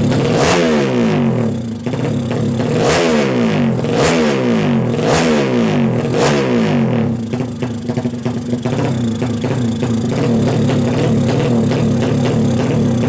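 Engine of a Kawasaki KLX drag bike, a single-cylinder four-stroke tuned up to 180cc, revved in five sharp throttle blips with the pitch falling after each one. It then settles into a steady idle for the last six seconds or so.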